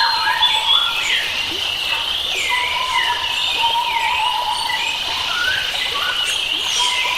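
Several wild forest birds singing and calling at once, a dense mix of short swooping whistles and chirps, over a steady high-pitched hum.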